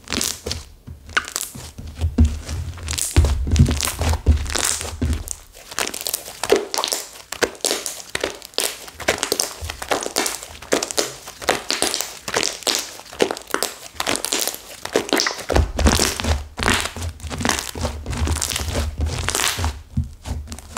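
Flora slime whose clay layer has hardened crisp being squeezed and kneaded by hand: continuous crackling and crunching, with soft low thuds about two to five seconds in and again from about fifteen seconds on.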